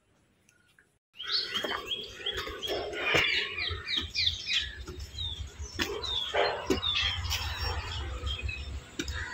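Several birds chirping and calling, many short quick chirps, over a low steady rumble; the sound cuts in suddenly about a second in after near silence.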